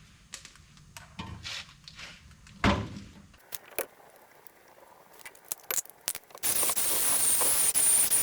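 A few metal clicks and knocks of parts being handled, then about six and a half seconds in a drill with a wire wheel starts up, a loud scrubbing noise with a high whine, cleaning the pad mating surfaces on a brake caliper bracket; it stops near the end.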